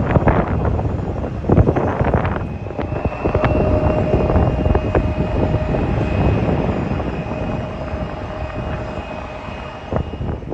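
Airliner jet engines running with a steady whine that fades over the second half, under gusty wind buffeting the microphone.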